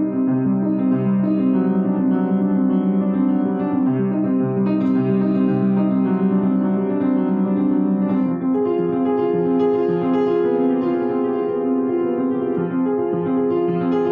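Solo piano playing a flowing piece, sustained chords over a steadily moving lower line, at an even level.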